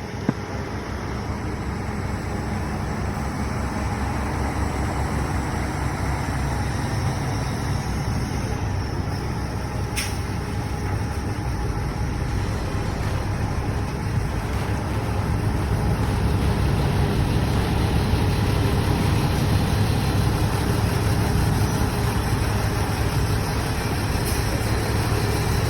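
Cummins ISX inline-six diesel truck engine running steadily, growing slightly louder after about sixteen seconds, with one sharp click about ten seconds in.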